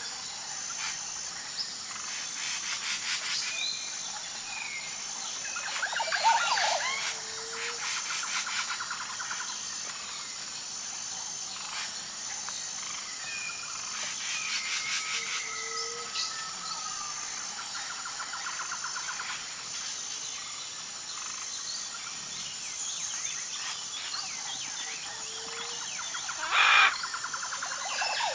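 Tropical rainforest chorus: a steady high insect drone with many birds calling over it, including rapid trilled calls, and a short low hoot that recurs about every ten seconds.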